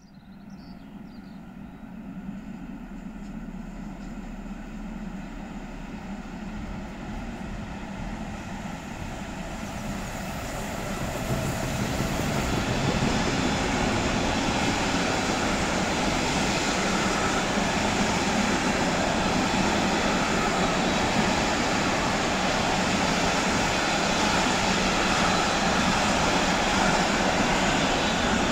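A train approaching and running past on the track: its rolling noise grows over about the first twelve seconds and then holds steady and loud.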